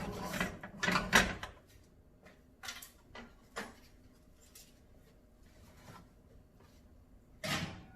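Kitchen handling clatter: a rattling scrape in the first second or so, two short knocks a little later, and another scrape near the end, like a drawer or cupboard being worked.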